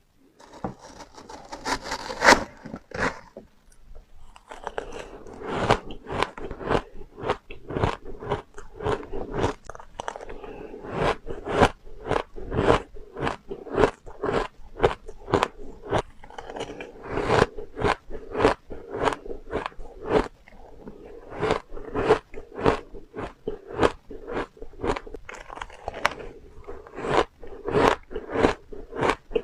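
Close-up crunching of refrozen powdery ice being bitten and chewed, soft crunches coming in a fast steady run of about two to three a second, with a short pause about four seconds in.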